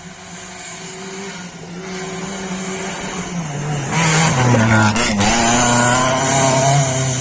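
A rally car's engine approaching and growing steadily louder. Its engine note drops in a few steps about halfway through, then it runs loud and close.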